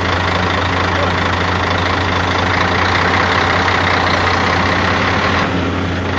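A vehicle engine idling steadily with a strong hiss over it; the hiss falls away near the end.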